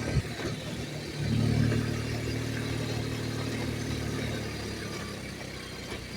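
Motorbike engine running with a steady hum. It swells louder about a second in, then slowly eases off.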